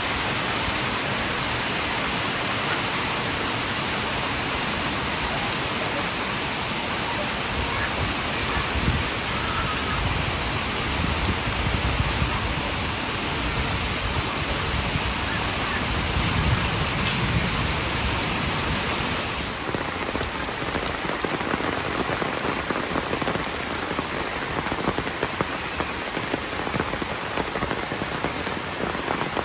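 Heavy rain falling steadily, a dense even hiss of drops. A low rumble swells and fades in the middle.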